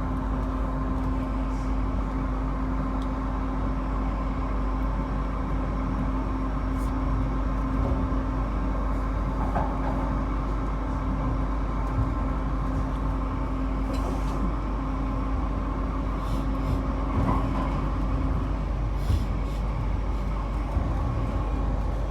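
Interior running noise of a Queensland Rail IMU 100 electric multiple unit on the move: a steady rumble of wheels on rail with a steady low hum that stops about three-quarters of the way through, and a few faint clicks.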